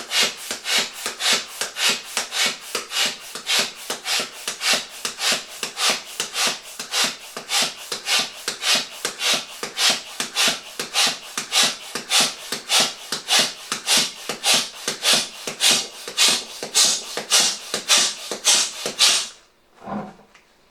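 Hand pump being worked in quick, even strokes, about two to three a second, pushing air into a PVC balloon to inflate it; the pumping stops about a second before the end.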